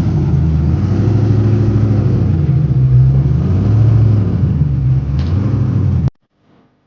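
Turbocharged LS V8 of a drag-racing Mustang running steadily at a raised idle, its pitch wavering a little, then cutting off abruptly about six seconds in.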